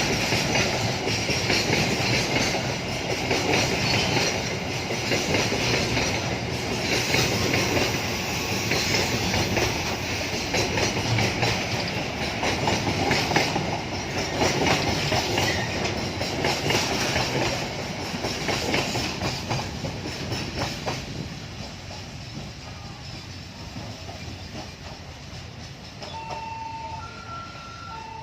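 A train's carriages rolling past, the wheels clattering over the rail joints, then fading away after about twenty seconds. Near the end, an electronic beep starts repeating, alternating between two pitches.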